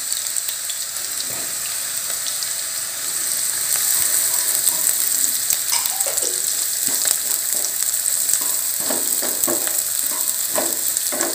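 Chopped garlic, carrot and cabbage sizzling in hot oil in a wok, stirred with a wooden spatula that scrapes the pan in short strokes. The stirring strokes come more often after about six seconds.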